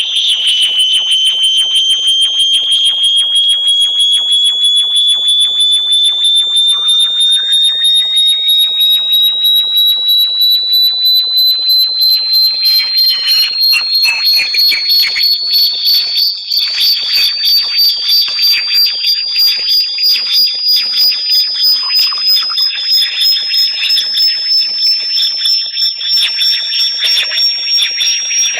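Electronically generated high-pitched tone of a bat-repellent sound track, sliding slowly upward in pitch throughout and pulsing rapidly, with fainter tones gliding across it.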